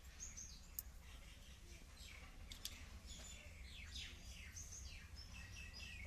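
Birds chirping faintly: many short, high calls, most sliding downward, over a low steady hum, with a couple of faint clicks.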